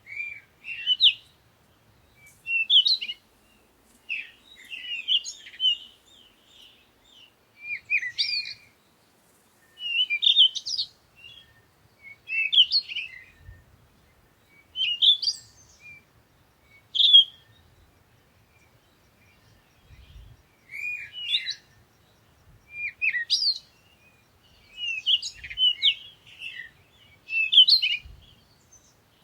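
Songbirds singing in short, high chirping phrases, one every second or two with brief pauses between.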